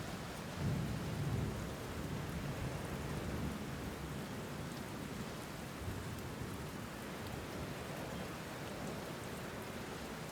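Steady rain falling, with a low rumble of thunder swelling about a second in.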